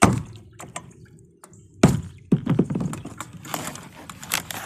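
Kayak paddle strokes splashing in the water, with drips running off the blade; a couple of sharp splashes early, then a busier run of splashing and dripping in the second half.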